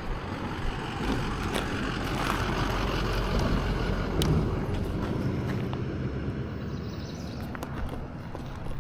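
Steady rumble of wind on the microphone and tyre noise while riding an electric unicycle along a trail, with a few faint clicks.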